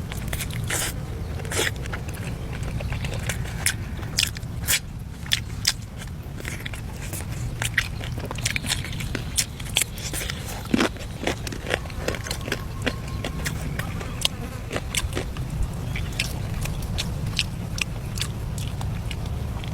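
Irregular sharp clicks and crunches of food being bitten and handled, over a steady low hum.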